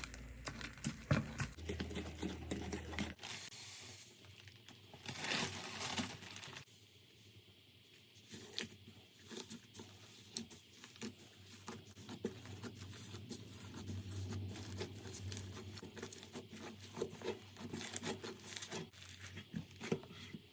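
Slime being squeezed, stretched and poked by hand, giving a dense run of short sticky clicks and crackles. The sound changes character abruptly a couple of times, about 3 and 6.5 seconds in, as one slime clip gives way to the next.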